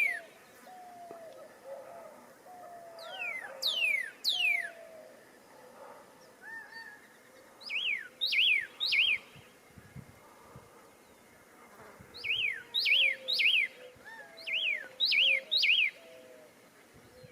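Songbirds calling: clusters of two or three quick, high whistled notes that slide downward, repeated every few seconds, with softer, lower warbling notes between them.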